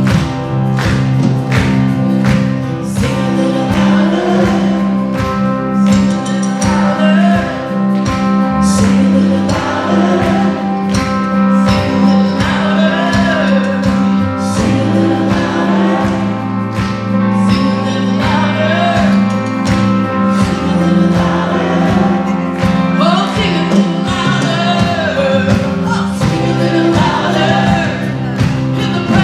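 Worship band playing with singers: sustained bass, a steady drum beat and a sung melody.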